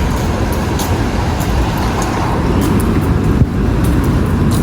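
Steady road and engine noise of a moving vehicle heard from inside, a low rumble with a few faint clicks.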